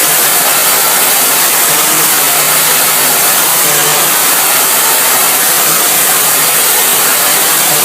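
Chewing-gum removal cleaning machine running: a loud, steady hiss from its spray jet with a low motor hum underneath.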